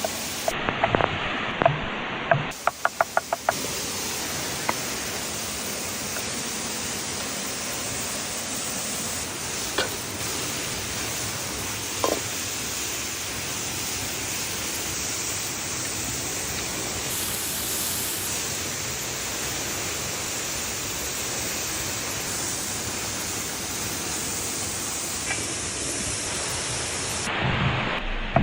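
A steady, even hiss with a few faint pops, preceded by a quick run of sharp clicks in the first few seconds.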